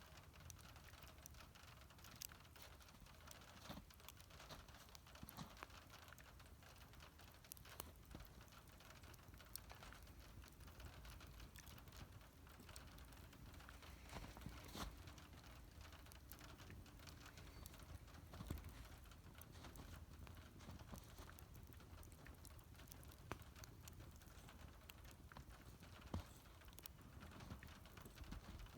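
Wood fire crackling faintly, with irregular sharp pops and snaps over a low steady rumble of burning.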